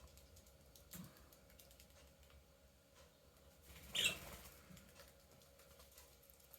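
Pet budgies and kakariki quietly busy: faint scattered ticking and tapping of beaks and claws, a soft knock about a second in, and a short, louder bird chirp about four seconds in.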